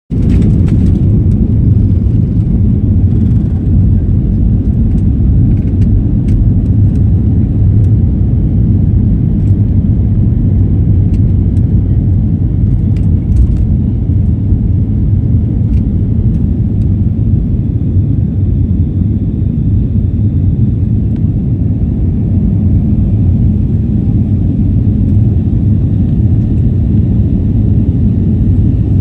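Jet airliner taking off: a loud, steady, low rumble of engines and rushing air, with a few faint clicks in the first half.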